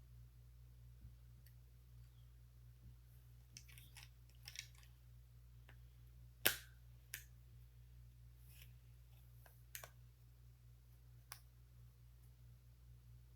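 Lego plastic pieces being handled and pressed together: scattered small clicks and snaps, the sharpest about six and a half seconds in, with faint rustling around four seconds.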